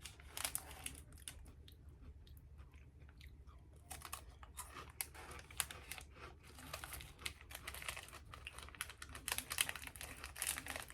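Close-up crunching and chewing of crisp Oreo wafer rolls, over a steady low hum. The crunches are sparse for the first few seconds and come thick and fast from about four seconds in.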